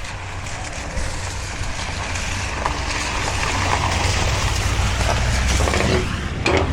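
Truck engine running with a steady low rumble that grows louder, then drops about six seconds in, followed by a brief clatter near the end.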